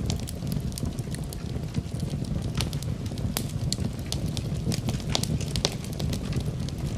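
Campfire burning: a steady low rumble of flames with frequent irregular crackles and sharp pops.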